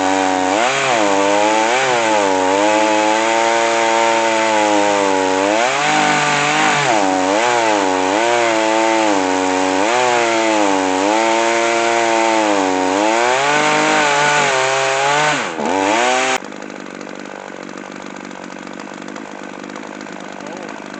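Chainsaw in an Alaskan chainsaw mill running under load through a log, its engine speed rising and falling as the cut loads and unloads it. It dips sharply near the end of the run, then breaks off abruptly into a quieter steady noise for the last few seconds.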